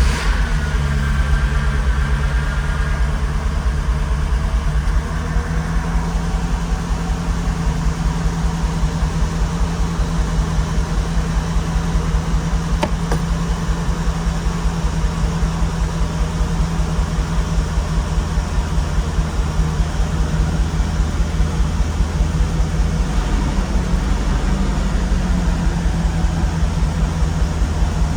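1972 Mercedes-Benz 350SL's 4.5-litre V8 just fired up from cold, idling steadily with an even, fast pulse.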